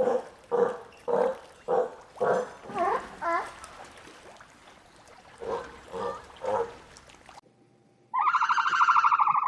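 A series of short animal calls, about two a second, that stop, then return with three more. After a cut, a different animal gives a loud, rapidly pulsing call near the end.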